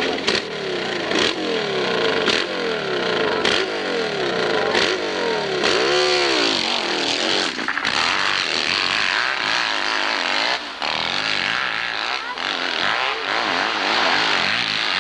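Hillclimb racing motorcycle engine revving hard, its pitch climbing and dropping again and again, about once a second, as the throttle is worked. About six seconds in it makes one long rev up and back down, then runs on more steadily.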